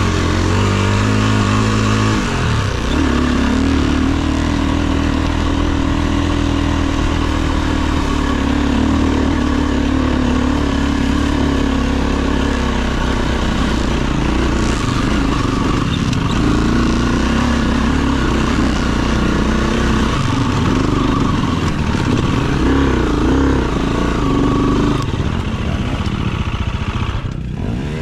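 Dirt bike engine running as it is ridden off-road, the revs rising and falling, dropping away near the end.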